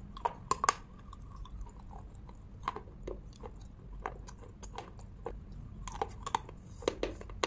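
Slate pencil pieces being bitten and chewed close to the microphone: irregular sharp, brittle crunches, a quick flurry of them near the start and again near the end.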